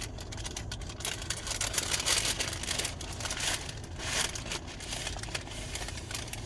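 Paper food wrapping crinkling and rustling in irregular flurries as it is handled and opened.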